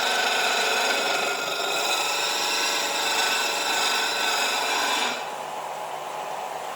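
A power grinder grinding the steel knife blade, a steady abrasive rasp with a whine. About five seconds in the grinding stops abruptly and the machine keeps running quieter.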